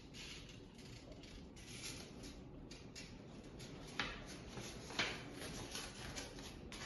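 Construction paper being handled and folded in half, faint rustling with two sharp clicks about a second apart past the middle.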